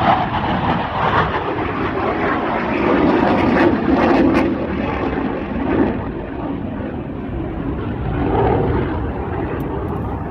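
Aircraft engine noise from an airplane flying past, a loud, rough rumble that swells about three to four seconds in and again near the end.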